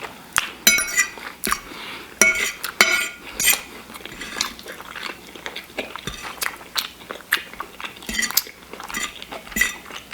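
Close-miked eating of shepherd's pie: a fork clinking and scraping against the dish many times, with chewing between the clicks.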